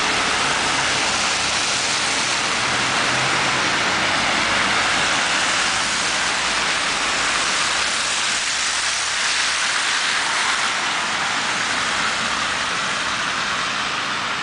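Road traffic on a snowy, slushy street: a steady hiss of car tyres through wet snow, with a low engine hum, swelling a little as cars pass.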